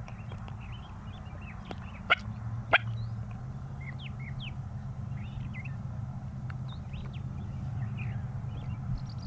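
Small songbirds chirping and twittering, with two sharp loud clicks a little over two seconds in, about half a second apart, over a steady low hum.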